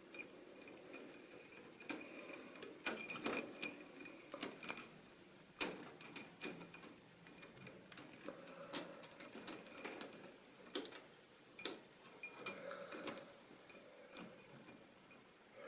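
Model railway train running on the track, its wheels giving irregular sharp clicks and ticks over a faint steady high hum.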